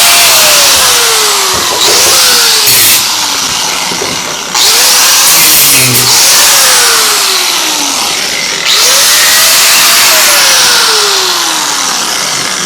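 Angle grinder working metal in several loud bursts. Each time the trigger is let go, the disc winds down in a falling whine, and then it is started up again.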